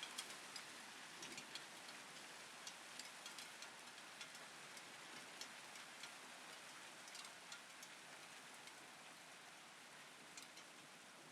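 Hail falling steadily: a soft, even hiss of hail and rain, with scattered sharp ticks of individual hailstones striking hard surfaces.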